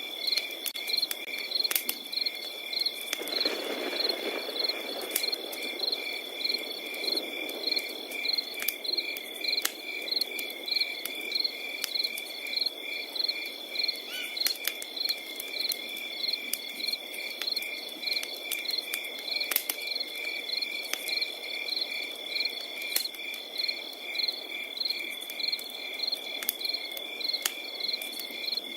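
Crickets at night: one holding a continuous high trill while others chirp in a regular pulse about twice a second, over a wood fire crackling with scattered sharp pops and a soft rushing burn that swells a few seconds in.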